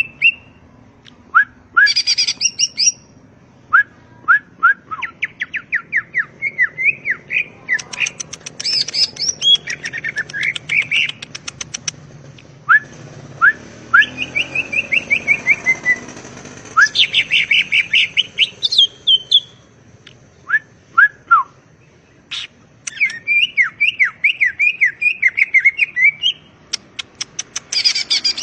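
Green leafbird (cucak ijo) singing: phrase after phrase of fast, sweeping chirps with short pauses between them, and higher shrill notes mixed in.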